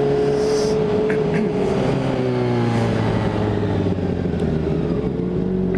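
Honda CBR600RR sport bike's inline-four engine running under way at a steady pitch, easing off slightly midway and then holding, over a steady rush of noise.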